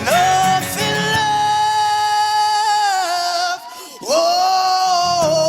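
Male singer holding two long, wordless notes with vibrato over soft accompaniment. The first note lasts about three and a half seconds and the second comes in about four seconds in.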